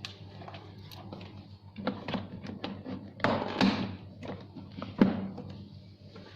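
Plastic parts of a ride-on toy truck being handled and fitted: scattered knocks and clatter, the loudest a sharp knock about five seconds in.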